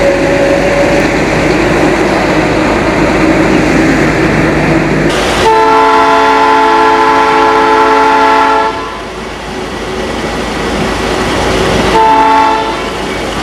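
Train running along the track, heard from on board as a steady rumble, with the locomotive horn sounding one long blast of about three seconds a little over five seconds in, and a short blast near the end.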